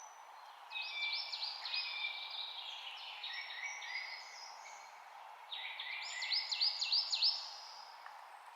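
Songbirds singing: two bouts of rapid chirp series, the second starting about five and a half seconds in, over a steady background hiss.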